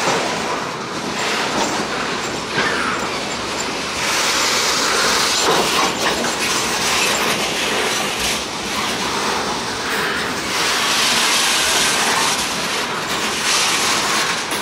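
Loaded freight cars rolling past: steady wheel-on-rail noise, a little louder for stretches about a third of the way in and again near the end.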